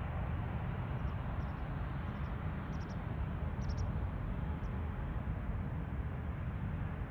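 Steady low outdoor rumble of airport background noise, with a few faint, short high chirps of small birds between about one and five seconds in.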